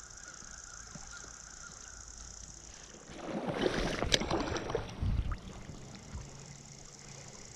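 River water splashing and sloshing for about two seconds, with a sharp click in the middle and a low thump just after.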